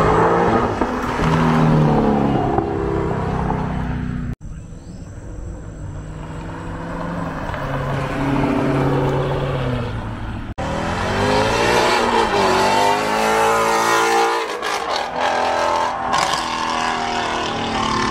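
Supercar engines revving and accelerating hard, the engine pitch climbing and falling with each pull. The sound breaks off abruptly twice, about four and ten seconds in.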